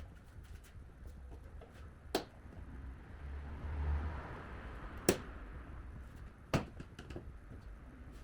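Three sharp knocks, a few seconds apart, over a low steady rumble.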